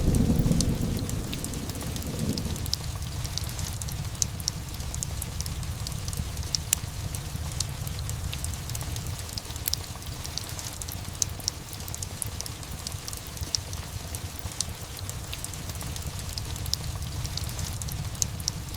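Thunder rumble dying away over the first two or three seconds, then steady rain with scattered sharp crackles and ticks.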